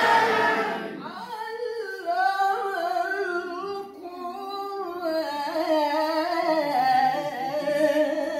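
A single voice chanting a long, ornamented melody in the style of a Qur'anic maqam, each line sliding through small turns of pitch. A fuller, louder sound of voices gives way to it about a second in.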